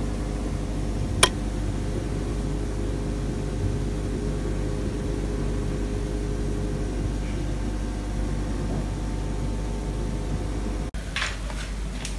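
Steady mechanical hum of a running machine, with a single sharp click about a second in and a short rustle near the end.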